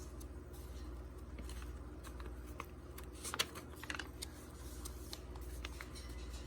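Paper pages of a handmade altered book being handled and turned: light rustles and small clicks, a cluster of them about three to four seconds in, over a steady low hum.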